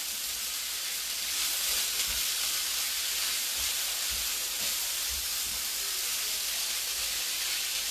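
Shredded jackfruit, onions, peppers and mushrooms frying in a skillet, a steady sizzling hiss while being stirred with a spatula.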